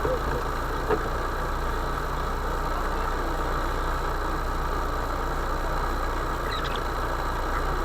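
Motor vehicle engine running steadily, a low even drone, with a short click about a second in.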